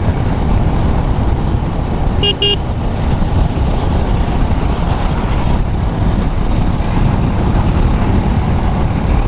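A vehicle horn toots twice in quick succession a little over two seconds in, over a steady low rumble of wind and engine noise.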